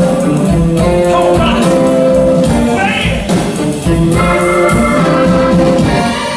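Blues band playing live: instruments hold sustained notes that change about once a second over a steady beat.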